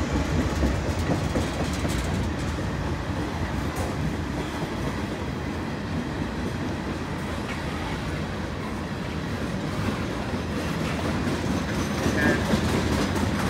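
Freight train tank cars rolling past on the rails: a steady rumble of steel wheels with a faint clickety-clack over the rail joints.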